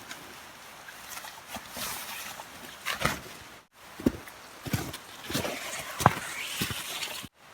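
Rustling with scattered knocks and thuds, cutting out for an instant twice.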